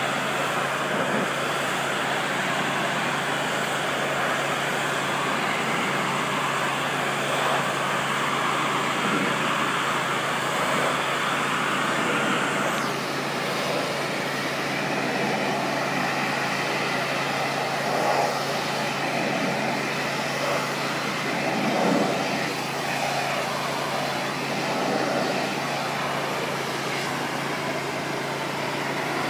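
Pressure washer running, with a steady hum under the hiss of the spray. About halfway through, the sharpest part of the hiss drops away.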